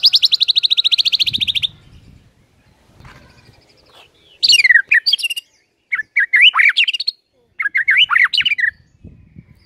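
White-rumped shama (murai batu) singing: a fast rattling trill of rapidly repeated high notes that stops under two seconds in, then three short phrases of quick sweeping whistled notes.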